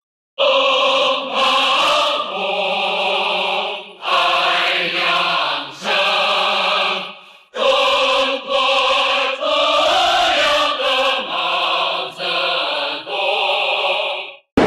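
A choir of voices singing or chanting together in long held phrases, with brief breaks between them.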